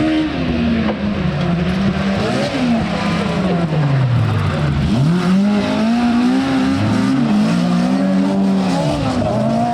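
Rally car engine at stage pace. The revs fall steadily for about five seconds, then climb hard again, with a few more quick rises and drops as it changes gear.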